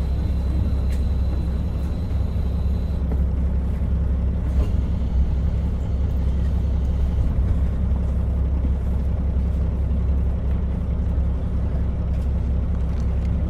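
Steady low rumble of a KiHa 40 diesel railcar, heard from inside the car. A faint high whine stops about three seconds in.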